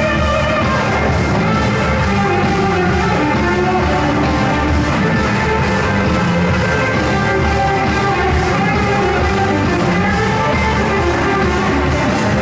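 Live blues-rock band playing loudly, with electric guitars, bass, drums and keyboards.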